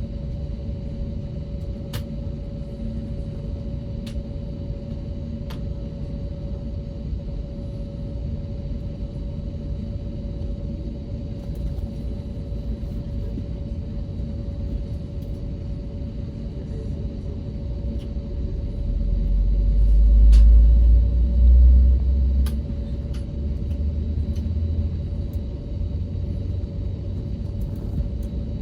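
Airbus A321neo cabin noise: a steady low rumble with a constant engine tone running through it. About nineteen seconds in, the low rumble swells louder for a few seconds and then settles back. A few faint clicks come early on.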